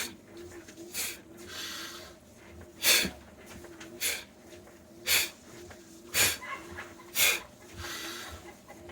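A person's breath forced out through the teeth on the lower lip in short, sharp "fff" puffs, pushed from the diaphragm about once a second, with a couple of softer, longer breaths between them.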